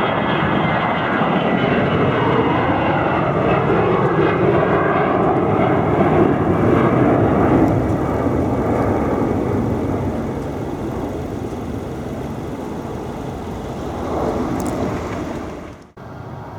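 Jet airliner passing close, its engine noise loud with sweeping shifts in pitch, then fading over the next several seconds. The sound cuts off abruptly near the end.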